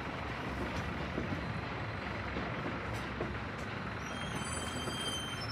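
Passenger coaches of a narrow-gauge train rolling past on the track, a steady rumble and clatter of wheels on rail, with a brief high squeal about four seconds in.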